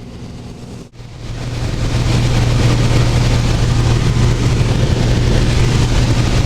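Light aircraft's engine and propeller droning in the cabin: a steady low hum with rushing air noise over it. It cuts out briefly about a second in, then swells back louder and holds steady.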